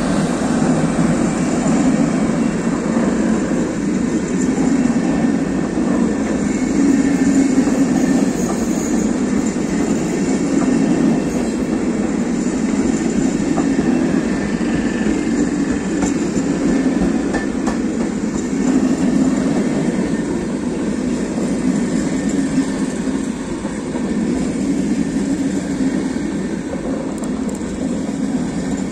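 Passenger train hauled by a Siemens Vectron electric locomotive rolling past, with the steady running noise of its wheels on the rails as the coaches go by.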